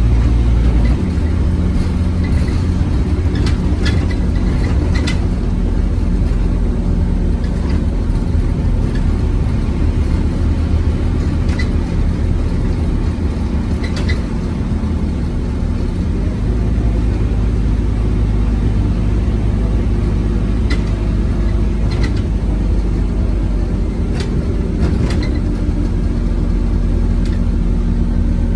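Scania OmniCity single-deck bus engine running steadily under way, with scattered sharp clicks and rattles over the low engine sound.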